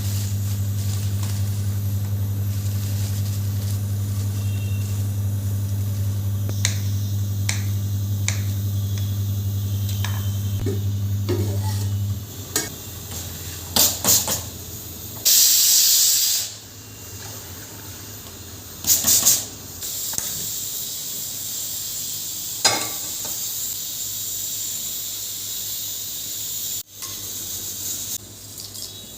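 Kitchen cooking sounds: a steady low electrical hum that stops about twelve seconds in, scattered clicks and knocks, then two short loud bursts of hissing and a steadier hiss toward the end.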